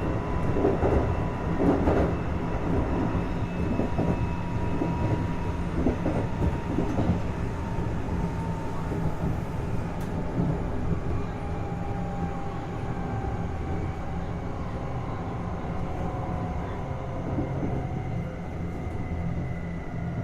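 Running sound inside a Kintetsu 1220 series motor car, whose traction motors run on a Hitachi GTO VVVF inverter: a steady rumble under thin motor and gear tones that slowly fall in pitch as the train slows. Wheels click over rail joints in the first several seconds.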